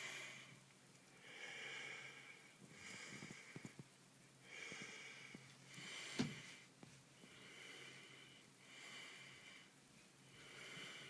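Soft, even breathing close to the microphone, in and out about every second and a half. A single short knock comes about six seconds in.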